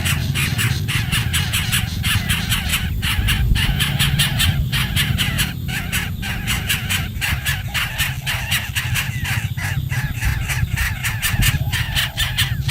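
Nestling birds begging, a dense chorus of rapid, high-pitched squeaky calls, over a steady low hum.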